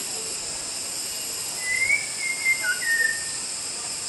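Shama (murai batu) giving a short run of clear whistled notes about halfway through, some gliding slightly up or down, over a steady high-pitched hiss.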